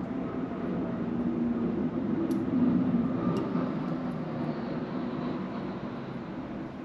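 Low rumble of a passing vehicle that swells to its loudest two to three seconds in and then slowly fades, with two brief faint clicks near its peak.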